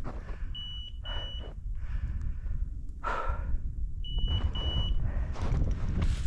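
Two pairs of short, high electronic beeps, the pairs about three seconds apart, over a steady low rumble, with a brief rustling burst about three seconds in.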